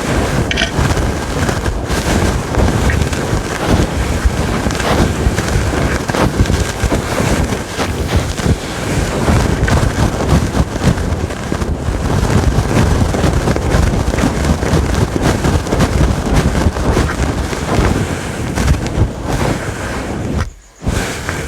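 Aggressive scratching on a fluffy microphone windscreen: a loud, dense, continuous rustle right on the microphone, with a brief break near the end.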